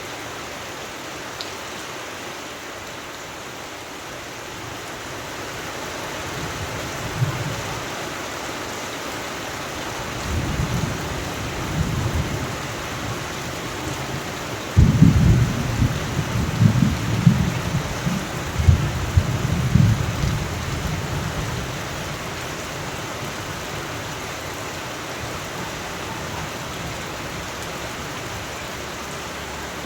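Steady rain with rolling thunder: a low rumble builds about ten seconds in, then a louder peal breaks suddenly about halfway through and rumbles on for several seconds before fading back to the rain.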